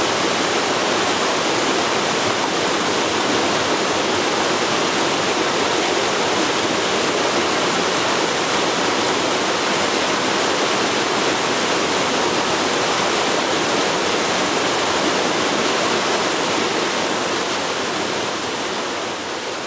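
Forest river rushing steadily over its bed, an even wash of water noise that begins to fade out near the end.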